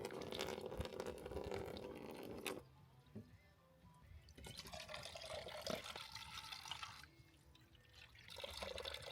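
Water running from a portable camp running-water setup, flowing in three spells with short pauses between them, about 2.5 s and 7 s in.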